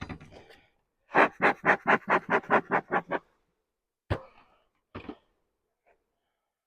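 A person's rapid breathy pulses, about five a second for two seconds, followed by two short knocks.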